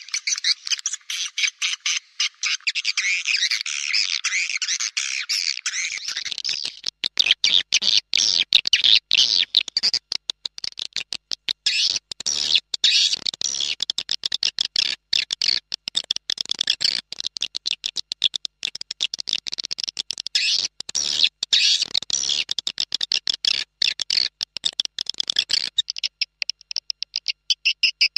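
Edible-nest swiftlets twittering in a dense, rapid stream of high-pitched chirps: a swiftlet lure call, the recording played to draw swiftlets into a nesting house. About six seconds in the chirping turns choppier, broken by many short gaps.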